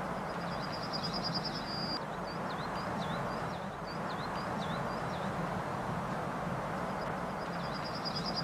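A songbird singing: a rapid high trill, then a run of short high chirps, with the trill coming again near the end, over a steady outdoor background noise.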